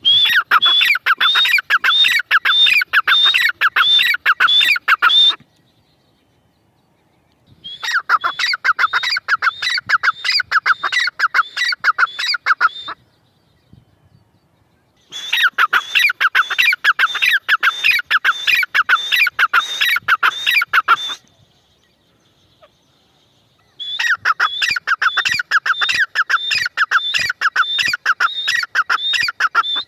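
Grey francolin calling in four bouts of fast repeated shrill notes, about three a second, each bout lasting five to six seconds with short pauses between.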